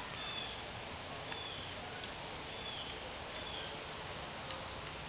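Steady outdoor background noise with faint, short bird chirps every second or so and a few light clicks.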